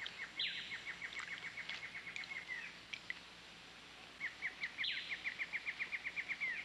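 A bird calling twice in fast trills of short repeated notes, about eight a second, each trill lasting a little over two seconds.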